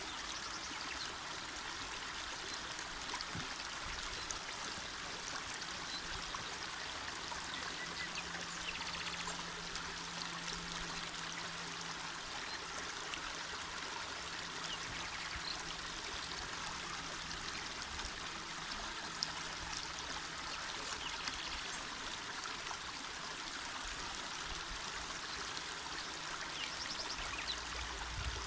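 Small mountain river flowing over stones: a steady rushing babble of water, with small splashes and trickles.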